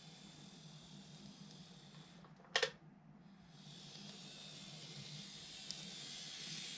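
Faint steady hiss with a low hum, broken by one short sharp click about two and a half seconds in.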